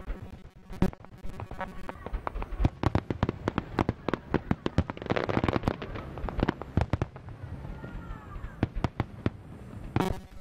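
Aerial fireworks display: many sharp bangs of shells bursting in rapid, irregular succession, thickening into a dense crackle around the middle.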